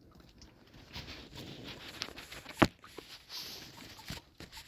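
Rustling and light handling noises with small clicks, and one sharp knock about two and a half seconds in.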